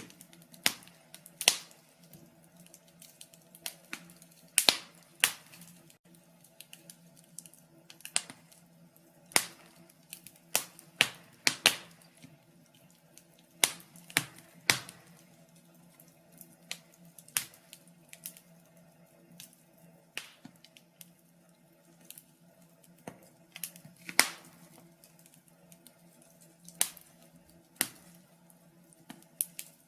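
Wood fire in a fireplace crackling, with irregular sharp pops and snaps of varying loudness, some in quick clusters.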